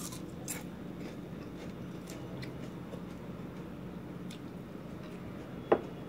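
Eating sounds: a bite into crispy tsitsarong bulaklak (deep-fried pork mesentery) and chewing, heard as faint scattered crunches and mouth clicks over a steady low room hum. One sharp click near the end is the loudest sound.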